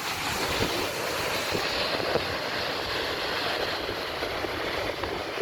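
Steady rushing of the Düden Waterfall's falling water, with wind buffeting the microphone in low uneven rumbles.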